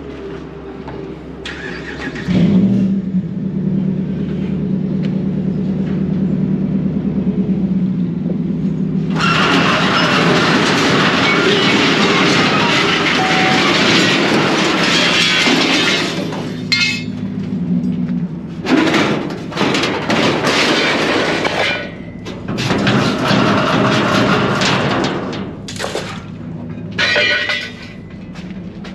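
Truck engine running steadily, picking up about two seconds in, with long spells of loud, harsh noise on top of it.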